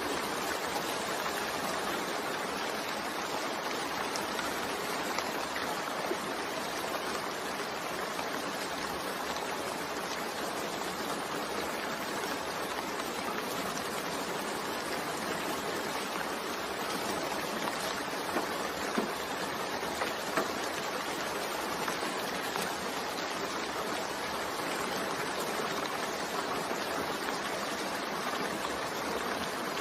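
Steady rainfall, an even hiss of rain with a few scattered louder drop ticks.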